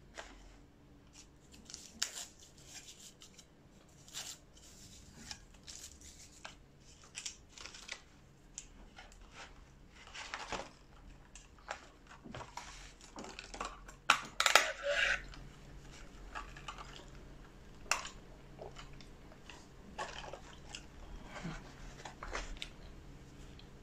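Close-miked eating sounds: chewing and crunching of a fast-food chicken burger and fries, with scattered short wet clicks and crackles. The loudest cluster comes about two-thirds of the way through.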